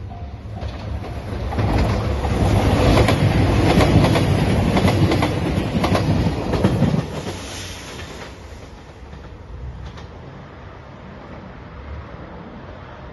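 JR Shikoku 2700 series diesel express train passing close at speed, its engines running and its wheels clacking over the rail joints. The sound builds over the first couple of seconds and cuts off abruptly about seven seconds in.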